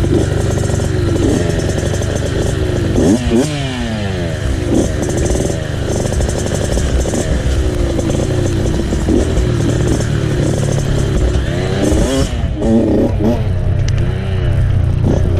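Dirt bike engine on a trail ride, its revs rising and falling again and again as the throttle is worked, with a long drop in revs a few seconds in and some clatter over the rough ground.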